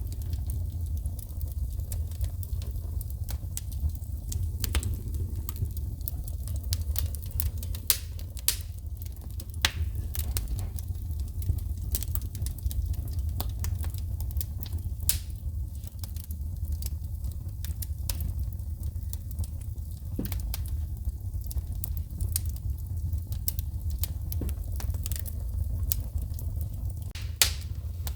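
Wood fire burning in a fireplace, with frequent sharp crackles and pops from the burning logs over a steady low rumble of the flames.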